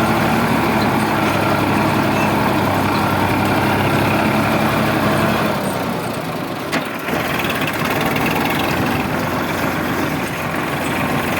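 Sonalika DI 745 tractor's diesel engine running steadily. It dips briefly about six seconds in, with a short click, then runs on as before.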